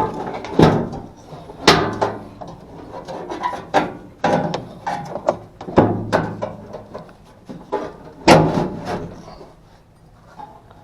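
Irregular knocks, clatter and scraping of tools and parts being handled while working on an HVAC unit, over a low steady hum. The knocking stops about a second before the end.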